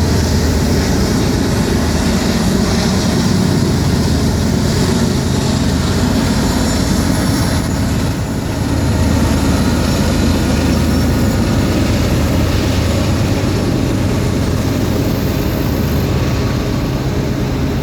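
Diesel-electric locomotives at the rear of a BNSF freight train pushing hard, a loud steady low engine drone under a broad rushing noise from the passing train.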